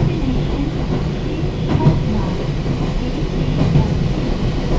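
Electric train running, heard from inside its empty passenger car: a steady rumble with a few wheel clicks over rail joints.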